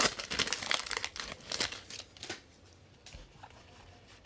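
Plastic wrapper of a trading-card pack crinkling and tearing as it is opened by hand, busy for about two seconds, then fading to light handling noise with a small click.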